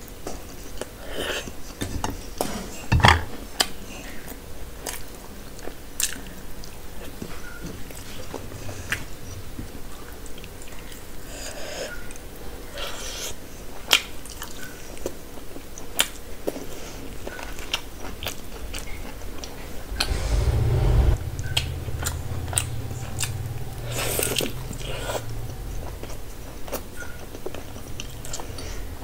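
Close-miked chewing and biting: a person eating puri and a spicy chicken leg with her hand, with many small wet mouth clicks. A low thump comes about three seconds in, and a low rumble sets in about twenty seconds in.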